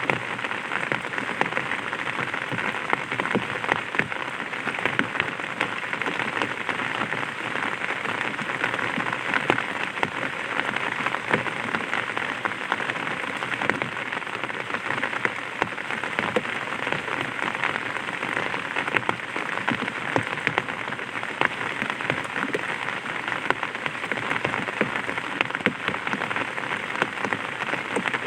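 Light rain falling on an umbrella: a steady hiss with many separate drops ticking on the canopy.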